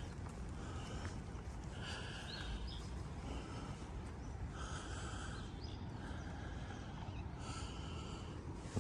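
Outdoor park ambience with a steady low hum, and a short buzzy animal call repeating about once a second.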